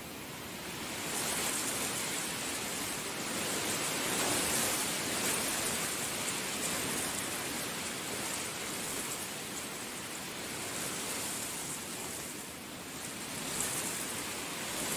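Heavy rain falling in a steady hiss that grows heavier about a second in, then swells and eases in waves.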